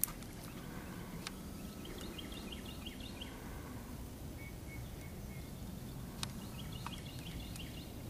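Birds chirping in two short, rapid runs of high notes, with a brief thin whistle between them, over a steady low background rumble and a few sharp clicks.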